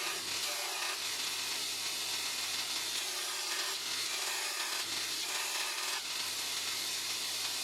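Power tool running steadily with a constant abrasive hiss, as in work on metal parts.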